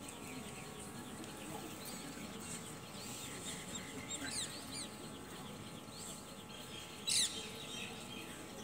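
Faint birds calling and chirping in the background in short, quick notes, with one brief, sharper sound about seven seconds in.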